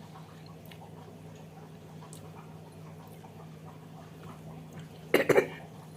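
Quiet eating sounds over a steady low hum, then one short loud bark-like sound of a few quick pulses about five seconds in.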